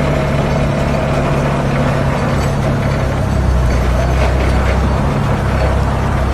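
Forklift engine running steadily, its low hum growing stronger about three and a half seconds in.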